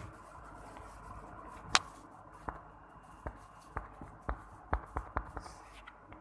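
One sharp knock, then a run of lighter taps or clicks about every half second.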